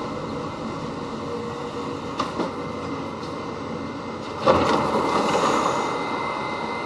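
New York City subway train running, a steady rumble with a couple of short knocks about two seconds in. A sudden louder rush comes about four and a half seconds in and eases off over the next second or two.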